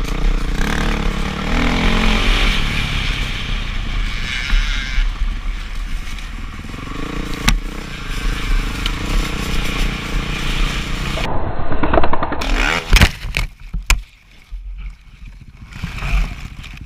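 Dirt bike engine running and revving, pitch rising and falling, with wind noise on the mic. About twelve seconds in come several loud knocks and clatter, then the engine sound drops away and only scattered clicks remain.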